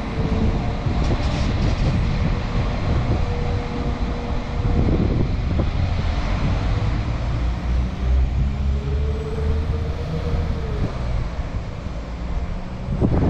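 Northern class 195 two-car diesel multiple unit pulling out of a station and drawing away: a steady low rumble of engine and wheels on the track, with a faint tone that rises and then falls in the second half.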